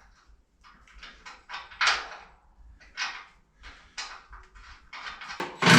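Short knocks and scrapes of heavy metal parts being handled in a workshop, irregular and about a second apart, with a louder clank that rings briefly near the end.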